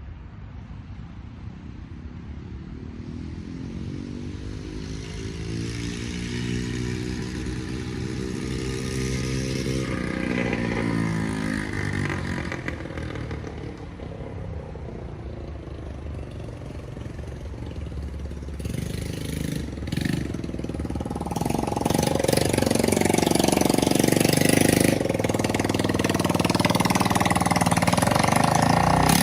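Small ATV engine running, its pitch rising over several seconds and dropping again, then growing louder and rougher over the last third.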